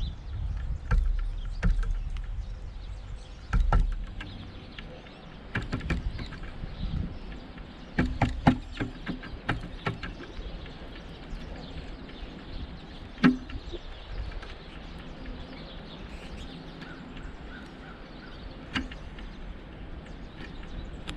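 Irregular pecking taps and knocks from a pileated woodpecker working at a suet feeder, coming in short flurries with pauses between, the sharpest knock about 13 seconds in.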